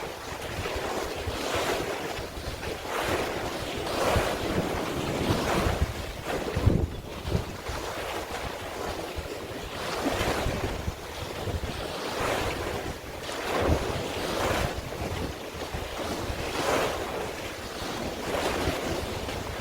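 Sea water washing and splashing in repeated surges about every second, with wind rumbling on the microphone.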